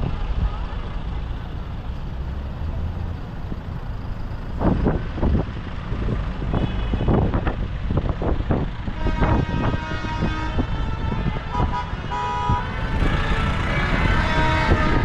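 Tractor engines running in a steady low rumble as the tractors pass. A horn tooting with held tones joins about two-thirds of the way through and grows louder near the end.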